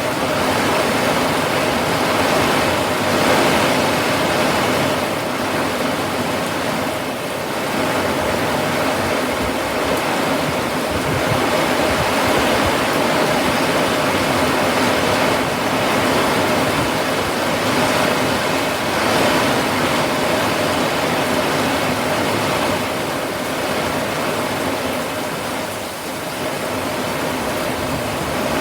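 Steady rain falling, a dense even hiss without breaks, with a faint steady hum underneath.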